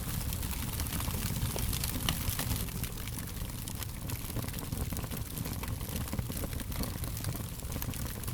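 Fire crackling: a steady low rumble of burning with frequent small, sharp pops and snaps scattered irregularly throughout.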